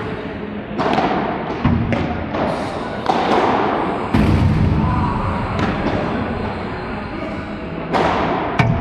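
Padel rally: a padel ball being struck with rackets and bouncing off the court and walls, a string of sharp thuds at irregular gaps of roughly a second.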